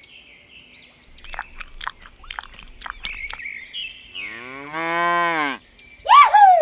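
A cow mooing: one long low moo that rises and then falls in pitch, about four seconds in. A louder, higher call that falls in pitch follows near the end. Before the moo comes a quick run of short chirps, over a faint steady background of farmyard birdsong.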